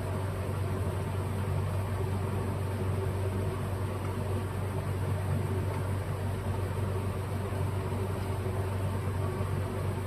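Steady machine hum with a low drone and a faint hiss, unchanging throughout.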